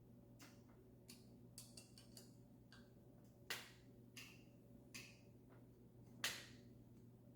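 Faint, irregular clicks and light taps of hand work on a bicycle, with two sharper ringing clicks about three and a half and six seconds in, over a steady low hum.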